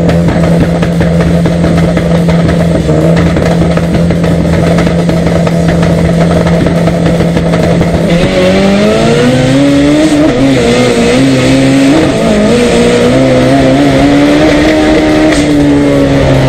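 Drag-racing car's engine heard from inside the cockpit, held at steady revs on the line for about eight seconds, then launching: the engine note climbs hard, drops back at each gear change and climbs again, easing off near the end.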